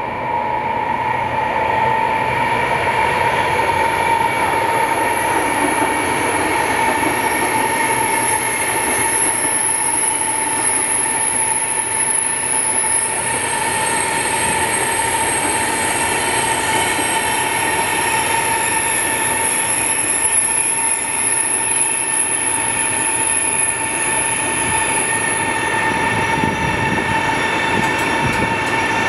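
CRH380-series high-speed electric train running at a steady pace: an even rushing noise with a held multi-tone whine over it.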